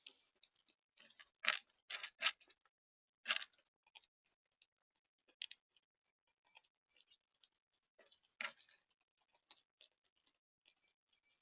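Irregular sharp clicks and crunches, a few louder ones about a second and a half in, around two and a quarter seconds, at three and a half and near eight and a half seconds: seed being cracked and pecked at a bird feeder close to the microphone.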